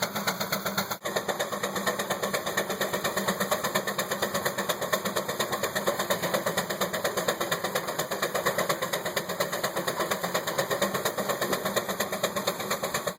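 Antique tractor engine running at the pull, its exhaust beating quickly and evenly, with a brief drop about a second in.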